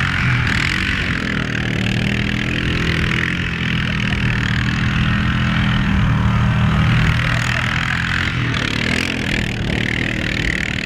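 A vehicle engine running steadily at an even pitch, with a hiss of noise over it.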